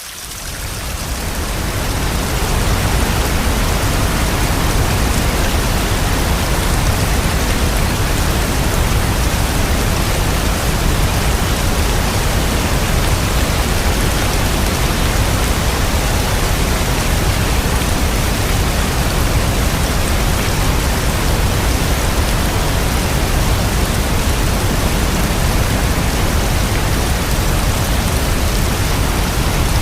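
Steady rain, an even hiss with a strong low rumble underneath, fading in over the first two or three seconds and then unchanging.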